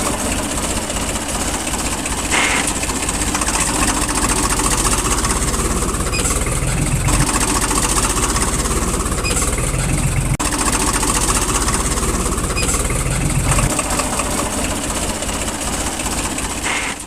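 A steady, loud engine-like mechanical running noise, with a brief dropout about ten seconds in.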